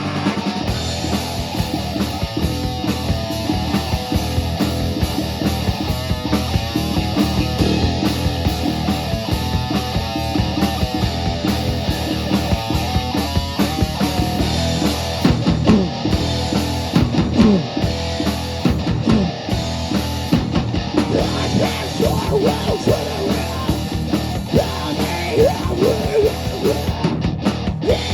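A live rock band playing loudly: electric guitar over a drum kit, with sliding notes from about halfway through.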